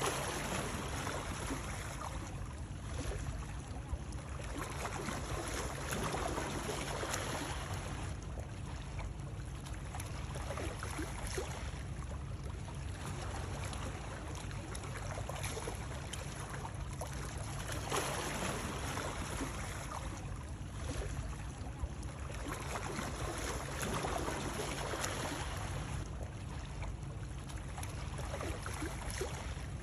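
Running water: a continuous splashing flow that swells and eases every couple of seconds.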